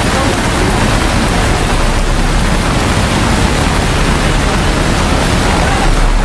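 Heavy rain falling in a downpour: a loud, steady hiss.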